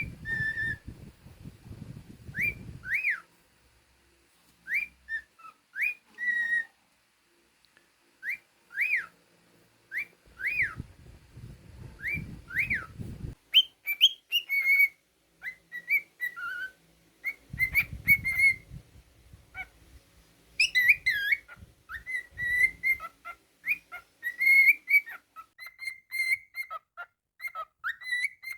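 Cockatiel whistling a song: paired rising-and-falling whistled notes that turn into a quicker run of chirpy notes about halfway through. Low rumbling noise comes in three times.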